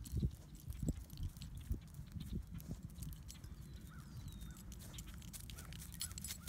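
Footsteps walking over hard-frozen, frosty ground and leaves: irregular low thumps with crunching crackles, continuing without a break.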